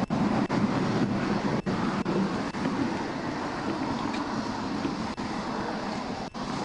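Steady vehicle and road noise at the roadside: a continuous rumble with hiss, broken by several brief dips in level.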